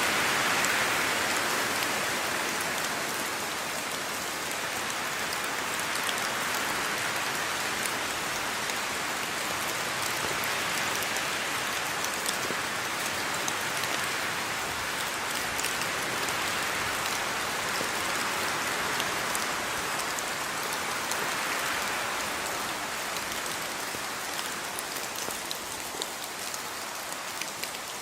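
Steady rainfall: an even hiss of rain with scattered individual drop taps, swelling and easing slowly. Near the end it lightens a little and separate drops stand out more.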